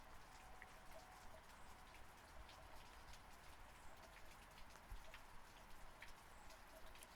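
Faint, steady rainfall, with many separate drops ticking through an even hiss. There is no thunder.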